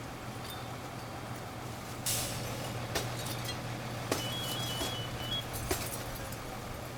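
Fire apparatus engines running with a steady low drone. A burst of hiss comes about two seconds in, then several sharp knocks and a quick run of high, alternating beeps near the middle.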